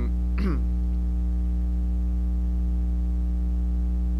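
Steady electrical mains hum with many overtones, with a brief trace of a voice about half a second in.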